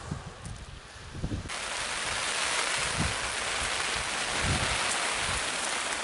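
Heavy rain falling on a shingle beach: a dense, steady hiss that starts abruptly about one and a half seconds in. Low rumbles of wind on the microphone come and go beneath it.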